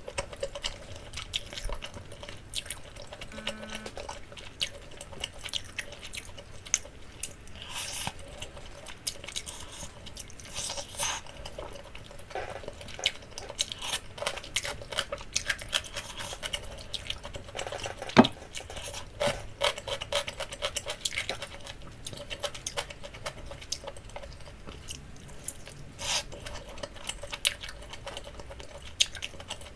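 Close-up wet chewing and lip-smacking of someone eating Jamaican jerk chicken, with many small irregular clicks and moist mouth sounds.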